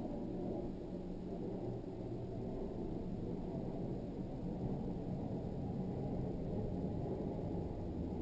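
Toyota GT86's flat-four boxer engine idling steadily, a low, even rumble heard from inside the car's cabin.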